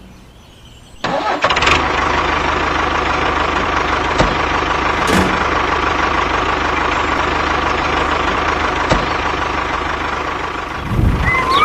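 An engine starts suddenly about a second in and then runs steadily at idle.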